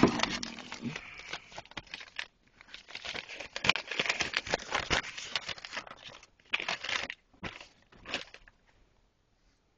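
Paper crinkling and rustling in irregular bursts as it is handled, stopping about eight and a half seconds in.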